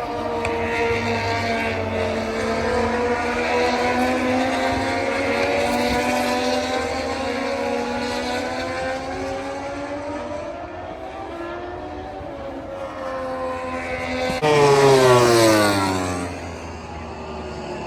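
Racing motorcycle engines running at high revs around a race circuit, their pitch rising and falling. About two-thirds of the way in, one bike passes close by, loudest here, its pitch dropping sharply as it goes past.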